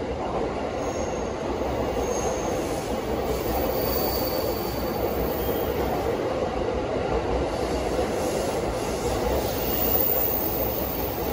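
Steady rumble of an electric train running through the station, with a few faint, brief high-pitched squeals.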